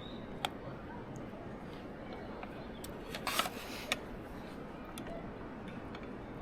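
Steady background noise with a few scattered sharp clicks and one brief rustling burst a little past the middle.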